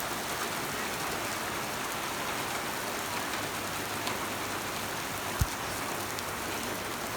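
Heavy rain falling in a steady, dense hiss during a thunderstorm. A single brief thump comes about five and a half seconds in.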